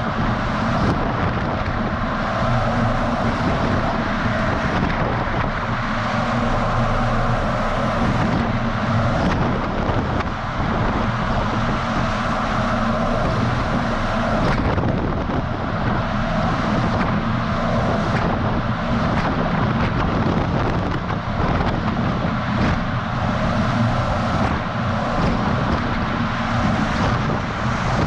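DAF XF semi truck driving on the road, heard from a camera mounted on the outside of the cab: a steady low engine and tyre rumble under constant wind buffeting on the microphone.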